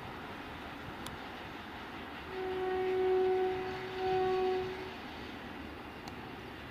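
Locomotive horn sounding two steady blasts, the first longer, over the even rumble of a passenger train's coaches running away along the track.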